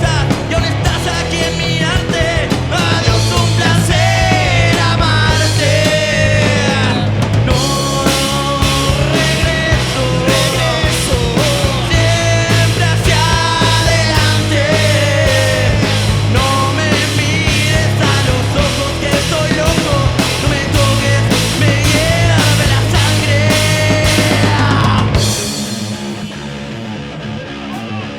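Rock band playing live: drums, bass and guitars, with a bending melody line over them. About 25 seconds in the full band stops and a quieter guitar sound carries on.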